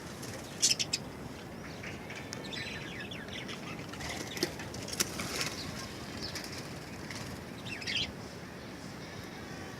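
Budgerigars flapping their wings in several short flurries, with faint chirps between them.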